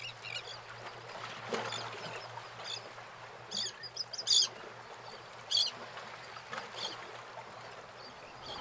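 A few short, high bird chirps, the loudest about four seconds in, over a faint steady hum.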